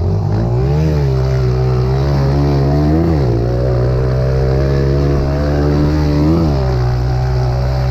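Pit bike engine running at a steady high speed. Its pitch briefly rises and falls three times, about a second in, three seconds in and six seconds in.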